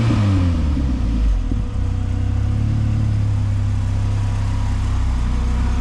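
1980 Volkswagen Jetta Mk1 coupe's turbocharged engine idling steadily, its revs shifting briefly at the start before settling.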